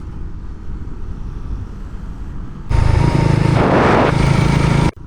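Steady road noise from a moving vehicle. About two and a half seconds in, a loud vehicle horn blast sounds for about two seconds and cuts off sharply.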